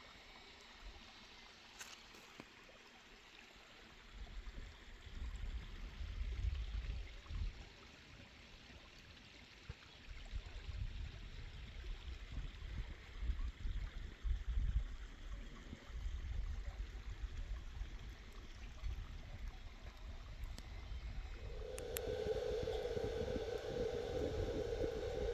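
Mountain spring water flowing in a steady hiss, with gusts of low rumble over it. A steady pitched hum starts near the end.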